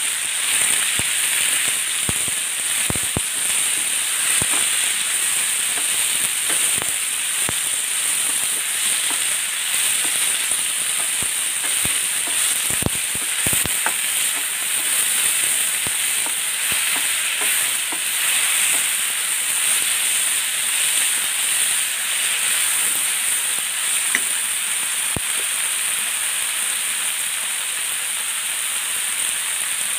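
Mint and coriander leaves with onion, tomato and green chillies frying in oil in a stainless steel pan: a steady sizzle. A wooden spatula stirs them, knocking and scraping on the pan now and then, most of all about 3 and 13 seconds in.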